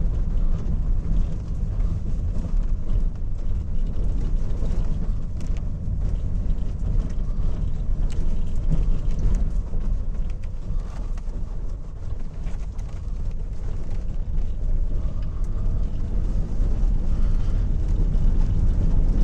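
A car driving on a rough, potholed road and its shoulder, heard from inside the cabin: a steady low rumble of engine and tyres with scattered small knocks from the bumps.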